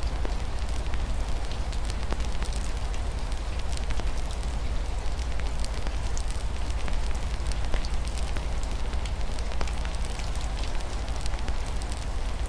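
Wood fire crackling with frequent sharp pops over a steady hiss of rain, with a constant low rumble underneath.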